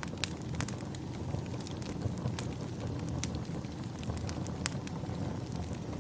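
Wood fire crackling in a fireplace, with scattered sharp pops and snaps over a steady low rumble of wind.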